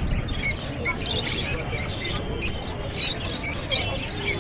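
A chorus of many caged pet birds (small parrots such as lovebirds and budgies, and finches) chirping at once: short, high, overlapping calls several times a second over a low background rumble.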